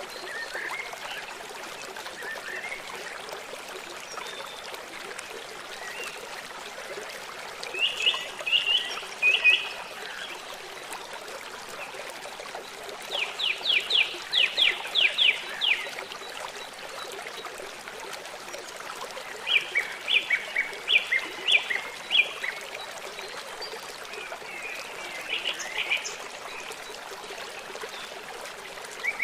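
Steady flowing river water, with a bird singing short phrases of quick repeated chirps four times over it; the second phrase is a fast run of about ten notes.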